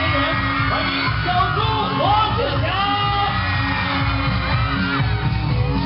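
Loud pop music played over a PA in a large hall, with a crowd of fans yelling and screaming over it.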